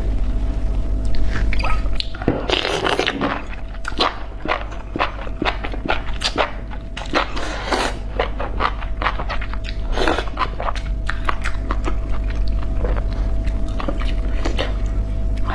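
Close-miked chewing of spicy enoki mushrooms: rapid wet clicks and smacks, with louder bursts of crunching a few times, over a steady low electrical hum.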